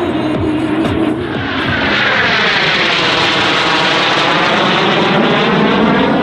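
Canadair CT-114 Tutor jet aircraft flying past. The jet noise swells about two seconds in and carries a sweeping, phasing change in pitch as it goes by.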